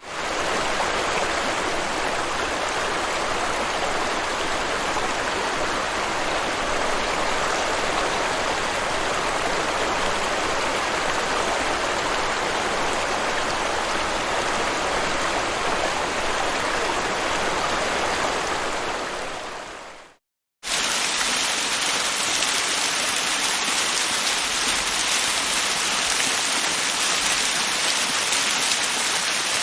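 Waterfall water rushing and splashing steadily. About two-thirds through, it fades out to a brief silence. Then another waterfall cuts in abruptly, with a brighter, hissier sound.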